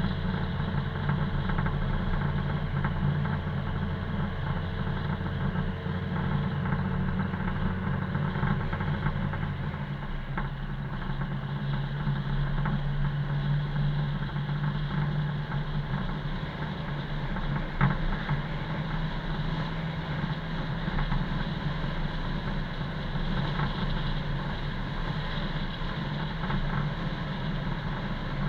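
Car driving: steady engine and tyre noise. A low engine note drops out about ten seconds in, and there is a single sharp click about two-thirds of the way through.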